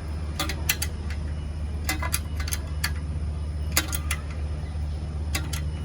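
Sharp metallic clicks from hand tools and metal parts being handled, in small clusters of two or three about every second, over a steady low hum.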